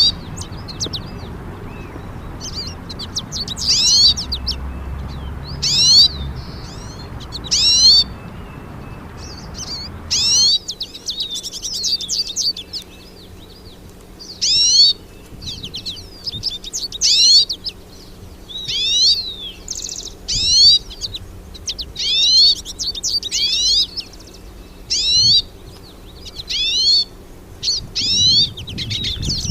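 Hooded siskin singing: short bursts of fast, high twittering notes, repeated every second or two. A low background rumble cuts off suddenly about a third of the way through.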